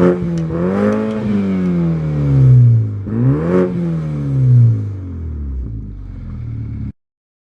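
BMW 328i F30's turbocharged four-cylinder, with its silencers deleted and dual 76 mm exhaust outlets, revved twice with the revs falling slowly back each time, then settling to idle. The sound cuts off suddenly near the end.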